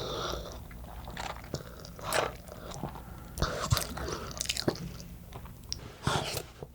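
Close-miked eating sounds: someone chewing a mouthful of black bean (jjajang) noodles, with irregular wet mouth clicks and a few short slurping or sucking bursts.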